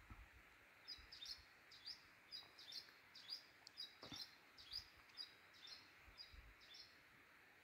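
A small songbird singing a faint, repeated phrase of short high notes, about two a second, starting about a second in and stopping near the end.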